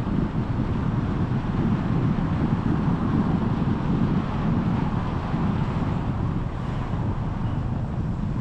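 Steady road and wind noise of a moving car, a constant low rumble with no sudden events.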